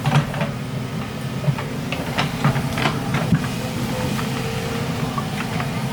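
Excavator engine running steadily under load, with scattered sharp knocks over it.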